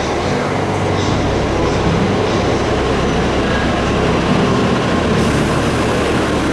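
A Tokaido Shinkansen bullet train running along the platform, a loud, steady rushing of wheels and air that eases off just after the end.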